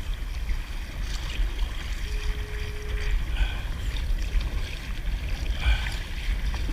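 Water lapping and splashing against a kayak, with a steady low wind rumble and a few faint knocks. About two seconds in, a steady tone sounds for about a second.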